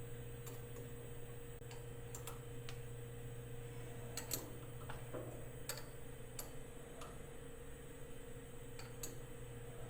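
Scattered sharp clicks and light taps at irregular intervals, the loudest about four seconds in, from bolts and hand tools being handled while a 3-jaw chuck is bolted onto a 4th-axis rotary table. A steady electrical hum runs underneath.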